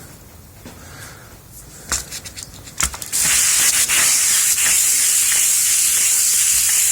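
Steel meat mincer plate being lapped on wet sandpaper: after a few light taps, a steady scratchy hiss of metal rubbing over the wet abrasive starts suddenly about three seconds in.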